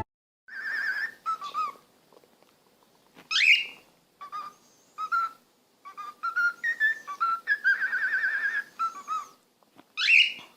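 Pet parrot whistling a string of short warbling notes, with a quick rising swoop about three seconds in and another near the end.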